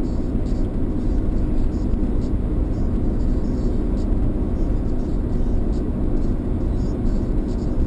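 Steady road noise inside a moving car: engine and tyres running at a constant pace.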